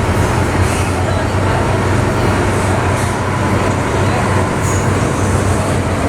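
MTR M-Train electric multiple unit running between stations, with a steady rumble of wheels on rail and a low running hum, heard from inside the car.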